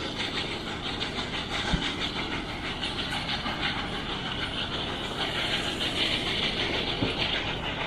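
A train running on rails: a steady rushing, hissing noise with a sharp knock a little before two seconds in and a weaker one near the end.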